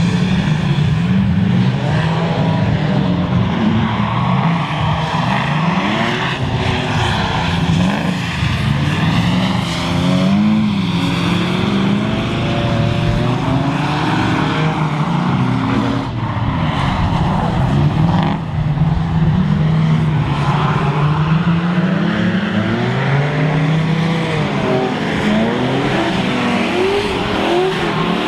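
Drift cars sliding on a wet track, engines revving up and down over and over with a constant hiss of tyre noise.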